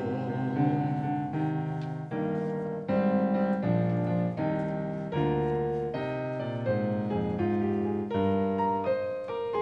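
Piano playing an instrumental interlude of chords, each struck sharply and then fading, changing roughly once or twice a second.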